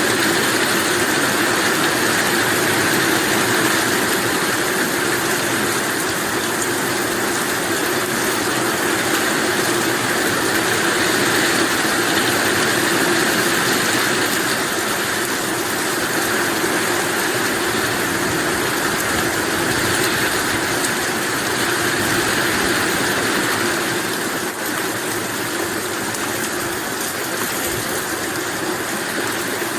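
Heavy rain falling steadily, a continuous dense hiss with no thunder, easing slightly in the last few seconds.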